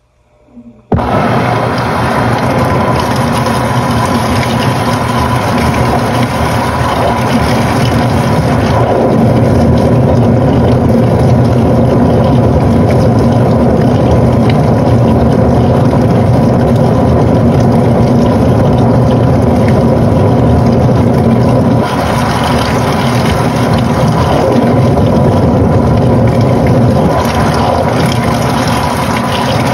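Panasonic NA-FA80H8 top-loading washing machine starting up abruptly about a second in, then running loudly and steadily with motor hum and churning water; the sound shifts slightly near the end.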